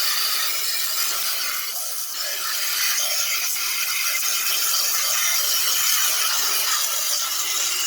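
Garden hose spray nozzle on its jet setting, a steady hiss of water blasting onto dirty air conditioner parts.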